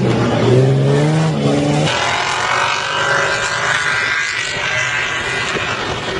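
SUV engine revving hard under load as it drives up a steep sand dune. The sound changes abruptly about two seconds in, after which it runs higher in pitch and wavers.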